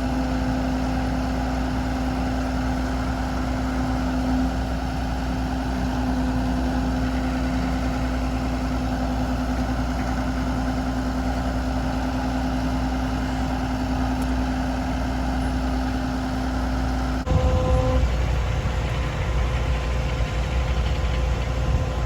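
Diesel engine of an International HV507 utility truck running steadily, with a steady hum over the engine rumble. About 17 seconds in, the sound changes abruptly: the low rumble gets louder and rougher and the hum stops.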